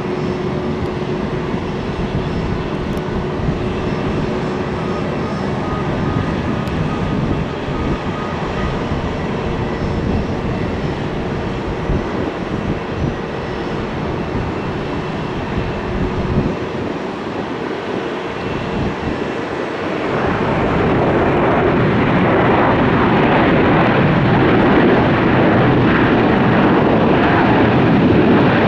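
Airliner jet engine noise, steady at first and growing louder about twenty seconds in.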